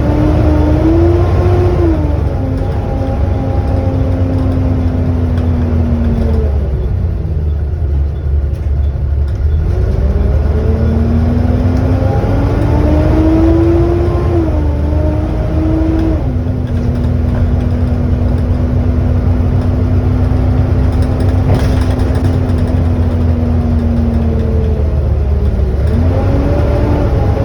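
Volvo B7TL double-decker bus drivetrain whine, the loud 'hoover' sound, over a steady engine rumble. The whine rises as the bus accelerates, steps at a gear change, holds steady, then falls away as it slows. This happens twice, and a third rise begins near the end.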